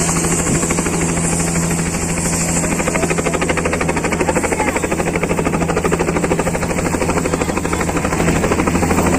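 Helicopter running with a steady low engine hum and the fast, even beat of its rotor blades.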